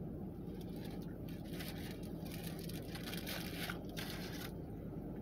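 Faint rustling and handling noises about one and a half to four and a half seconds in, over a steady low hum.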